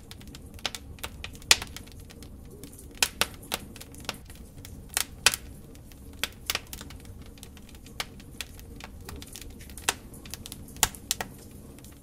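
Logs burning in a fireplace, crackling and popping irregularly over a low, steady rumble of the fire.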